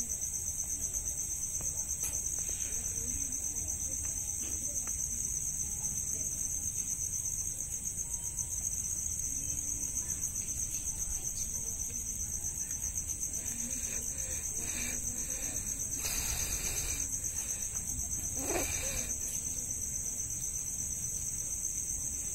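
Continuous high-pitched insect trilling, a fast steady pulsing with no break, with two brief rustling noises about 16 and 18 seconds in.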